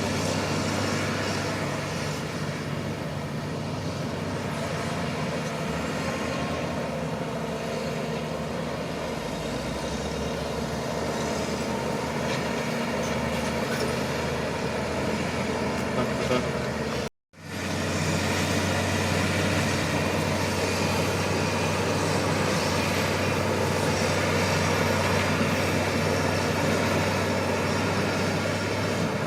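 Shantui crawler bulldozer's diesel engine running steadily under load, with an even low hum. The sound breaks off abruptly for a moment partway through and then carries on.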